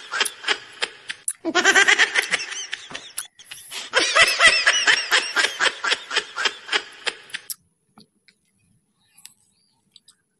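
A man laughing in rapid, repeated bursts, stopping about three-quarters of the way through and leaving only a few faint clicks.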